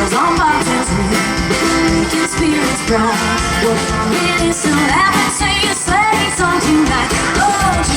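Live band playing a song through the stage sound system, with bass, drums and guitar, and a woman singing lead in phrases throughout.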